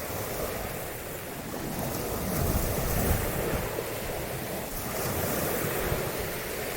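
Surf washing on a shore, a steady rush that swells about two and a half seconds in, with wind buffeting the microphone.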